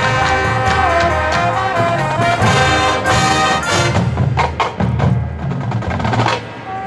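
High school marching band playing: brass horns over drums, with a run of sharp percussion hits about four seconds in and a brief drop in level near the end.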